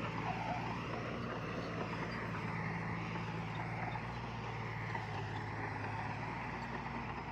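Diesel engine of heavy earthmoving equipment running steadily at an even pitch, with a low drone and a rushing hiss over it.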